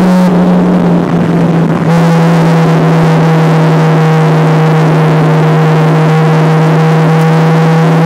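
Mazda RX7 race car's rotary engine heard from inside the cabin, running hard at a steady high note. The note breaks up into a rougher sound for about a second and a half near the start, then settles back into a steady drone a little lower in pitch.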